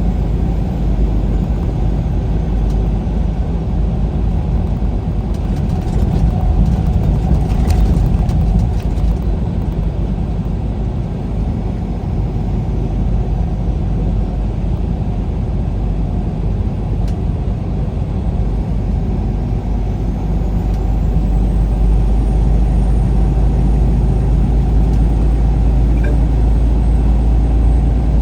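Steady low rumble of road and engine noise from a vehicle driving at speed.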